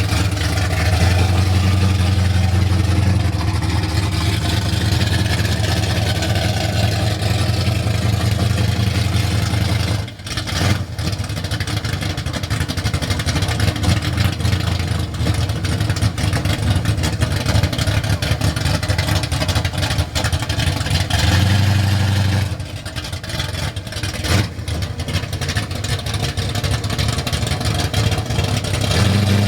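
Classic car's engine running at low speed, a steady low rumble that dips briefly about ten seconds in and changes again a little after twenty seconds.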